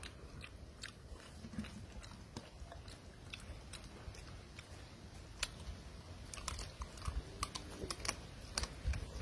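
A person chewing, with scattered sharp mouth clicks that come more often in the second half.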